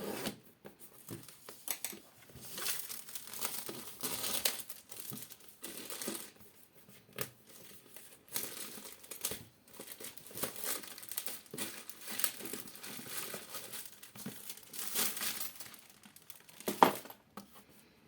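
The sealed retail packaging of a boxed AIO CPU water cooler being torn open and handled: irregular crinkling and tearing rustles in stops and starts, with one sharp snap near the end.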